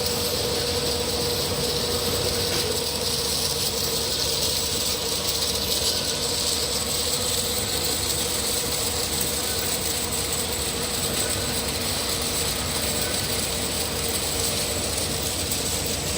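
Vial washing machine running: a steady mechanical noise with a constant hiss and a steady tone, unchanging throughout.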